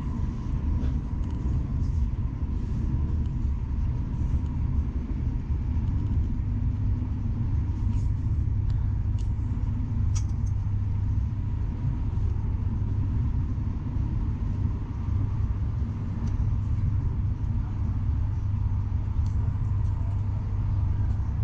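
Class 395 Javelin electric train running along the line, heard from inside the carriage: a steady low rumble with a faint steady whine over it and a few light clicks.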